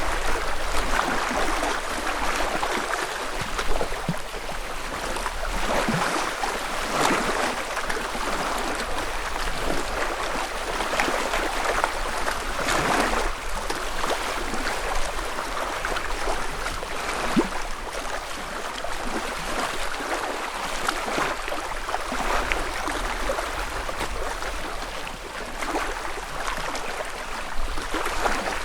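Small lake waves lapping against the shore: a steady wash of water with soft splashes every second or two.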